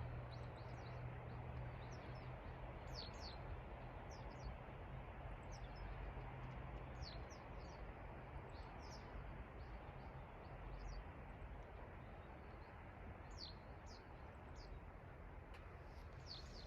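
Small birds chirping outdoors, short high chirps every second or so, over a steady background hiss, with a low hum in the first few seconds.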